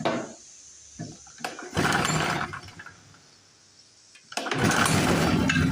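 Small portable generator engine being started: a brief burst of firing about two seconds in dies away, then the engine catches about four and a half seconds in and runs steadily.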